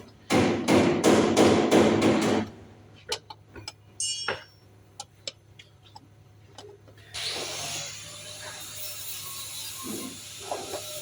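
Workshop hand-tool work on engine parts: about seven quick strokes at roughly three a second, then scattered sharp clicks of tools. About seven seconds in, a steady hiss starts and carries on.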